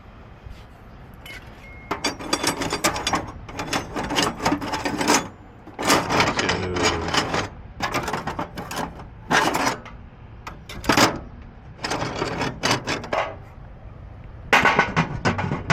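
Metal hand tools clattering and clinking against each other as they are rummaged through in a toolbox, in repeated bursts starting about two seconds in.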